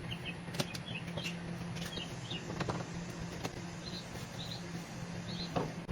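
Birds chirping off and on, with a few sharp clicks and a low steady hum underneath.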